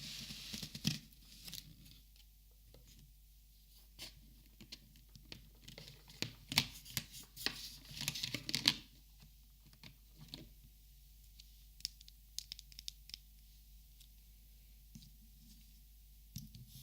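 Paper handled and scratched at with markers: rustling, scraping strokes on paper mixed with sharp clicks and taps. They come in a brief burst at the start and a busy stretch in the middle, then only scattered light clicks.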